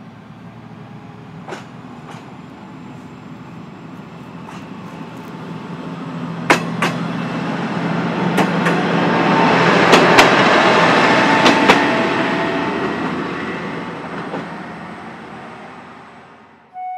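A single diesel railcar approaches and passes close by, its engine running and its wheels clacking over the rail joints. It grows louder to a peak about ten seconds in, then fades as it moves away.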